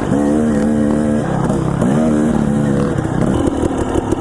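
Dirt bike engine under way, its pitch rising then holding steady twice as it revs up. From about three seconds in it runs choppier, with quick uneven pulses.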